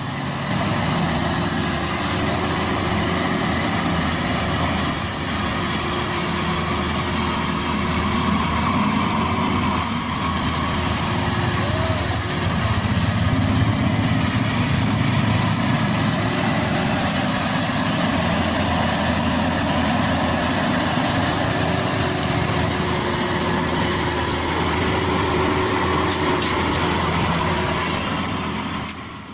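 Maxxi Bimo Evo Xtreme combine harvester's engine running steadily under load, with a faint high whine that comes and goes.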